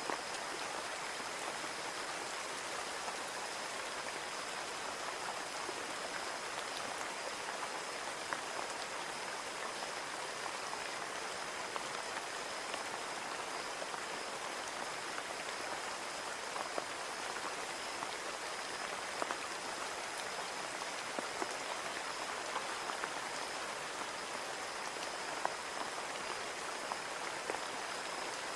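Steady rain on a window pane: an even hiss of rainfall with many individual drops ticking against the glass, and a faint steady high tone throughout.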